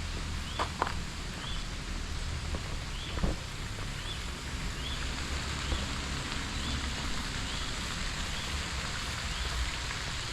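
Steady outdoor hiss like light rain, over a low rumble. A faint high chirp repeats about once a second, and a few sharp clicks come in the first few seconds.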